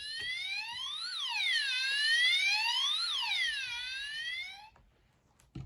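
Electronic police-car siren from a children's sound book's button, wailing up and down in pitch about once every two seconds before cutting off suddenly. A short click comes near the end.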